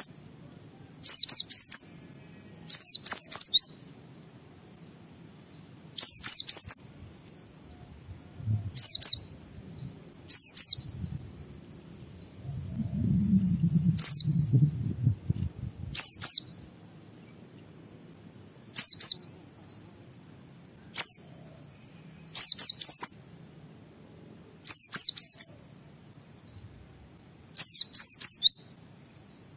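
White-eye (pleci) singing: short, high chirping phrases, each sweeping quickly downward, repeated every second or two. A low rumble sits under the song about halfway through.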